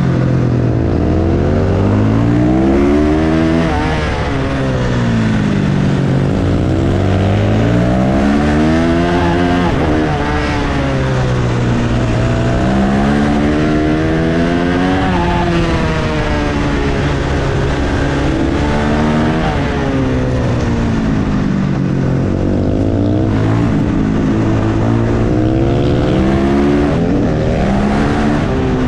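Husqvarna FS 450 supermoto's single-cylinder four-stroke engine heard on board at race pace, revving up hard through the gears and dropping back on the throttle for each corner, its pitch rising and falling over and over.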